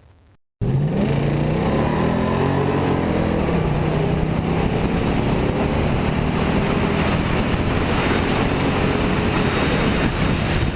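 An engine running, cutting in suddenly, its pitch rising over the first two seconds and then holding steady.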